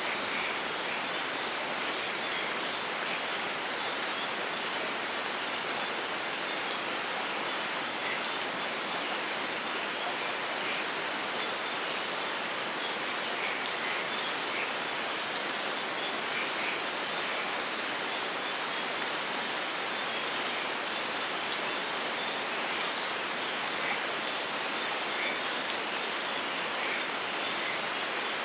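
Steady, even rain falling, with faint scattered drop sounds.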